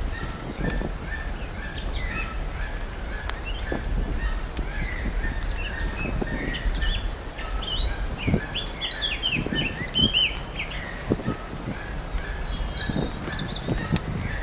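Small birds chirping outdoors: a short chirp repeated steadily about twice a second, joined in the middle by a flurry of quick, high twittering calls and again briefly near the end, over a low rumble.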